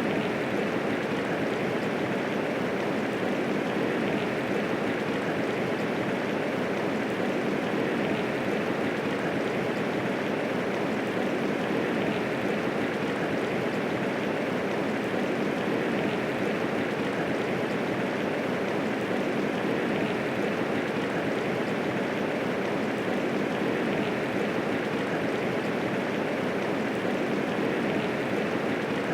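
Steady medium rainfall, an even rushing hiss of many drops with no thunder.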